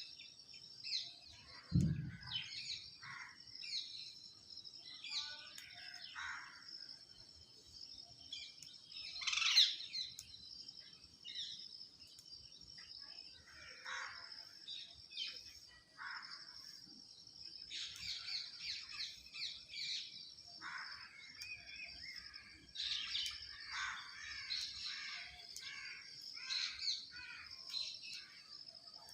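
Birds chirping and calling in short bursts, with several calls close together in the second half, over a steady high-pitched drone. One dull thump about two seconds in.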